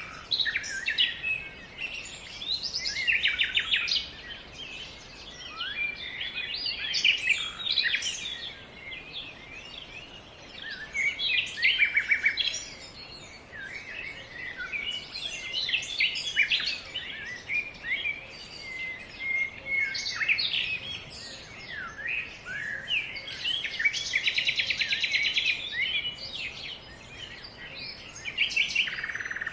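Several songbirds singing and calling at once: dense, overlapping chirps and whistled phrases, with a fast trill about three-quarters of the way through.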